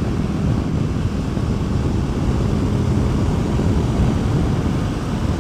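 Honda CBR500R's parallel-twin engine running at steady cruise, heard through a helmet chin-mount microphone with heavy wind noise.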